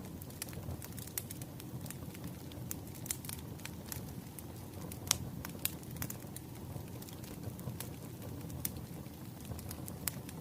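Firewood burning, a steady low rush with frequent irregular crackles and pops, one sharper pop about halfway through.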